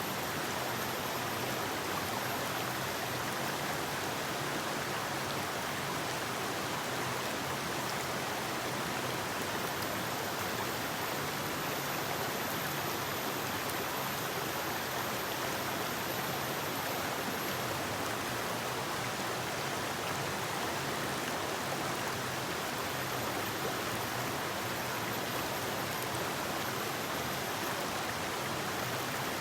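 Forest river flowing over rocks: a steady, even rush of water with no changes.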